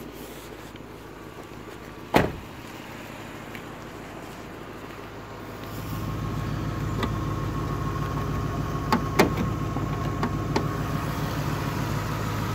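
Lexus GS430's 4.3-litre V8 (3UZ-FE) idling steadily. A single sharp knock comes about two seconds in. About six seconds in the idle grows clearly louder as the bonnet is raised over the running engine, followed by a few light clicks.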